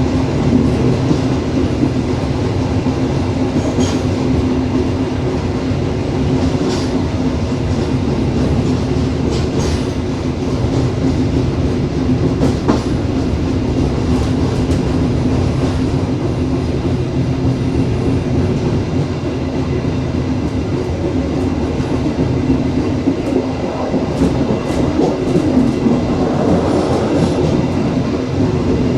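Dharmawangsa long-distance passenger train running steadily: a continuous rumble of wheels on track with a low hum and a few scattered clicks.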